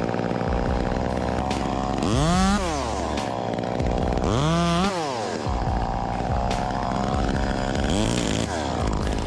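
Chainsaw engine running steadily, revving up and falling back three times: about two seconds in, midway, and near the end.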